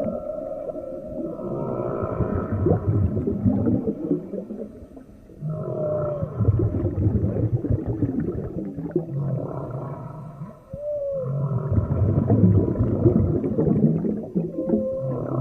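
Whale calls heard underwater: short moaning tones that rise and fall, over low pulsing grunts and a steady crackle, coming in groups every four to five seconds.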